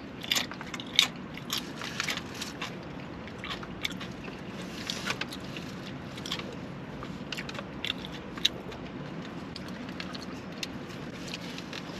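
Close-up eating sounds: biting, chewing and crunching food, with many short crisp crunches that are densest in the first few seconds and then come more sparsely, over a steady low hum.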